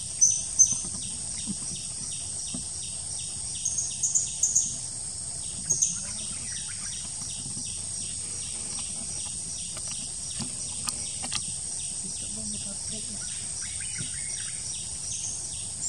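Short, high, thin bird chirps come in small clusters: just after the start, around four seconds in, and around six seconds in. Under them runs a steady high insect drone and an even insect chirr that pulses about three or four times a second.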